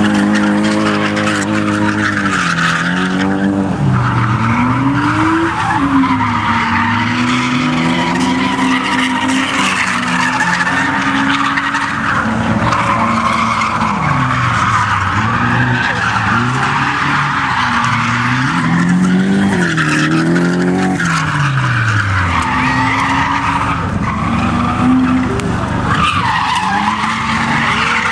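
A drift car's engine revving up and down over and over as it slides, over a continuous screech of tyres spinning and losing grip.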